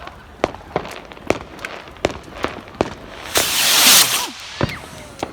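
Fireworks going off: a run of sharp bangs and cracks at irregular intervals, with a loud hissing crackle lasting about a second just past the middle.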